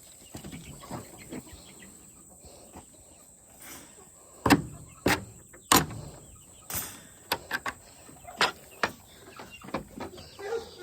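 Chickens pecking crushed oyster shell from a small feeder: sharp, irregular taps and clicks that begin about four seconds in and come every half second or so.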